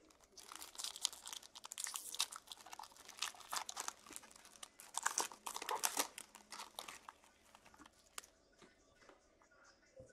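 Plastic wrapping on a box of trading cards crinkling and tearing as it is opened by hand. A dense run of crackles fades to a few light ticks after about seven seconds.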